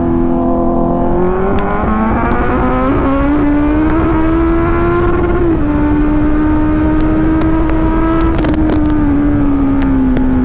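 Motorcycle engine running hard at high speed, heard from the rider with heavy wind noise. The revs climb in the first few seconds, drop sharply with a gear change about halfway, and ease off slowly near the end.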